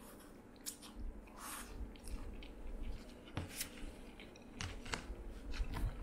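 A person chewing a mouthful of simmered kelp and shiitake, with irregular small clicks and smacks from the mouth and chopsticks.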